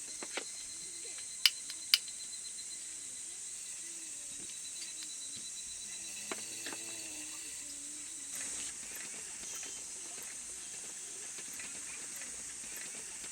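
Higurashi evening cicadas calling steadily as a high, even chorus. Two sharp clicks stand out about one and a half and two seconds in.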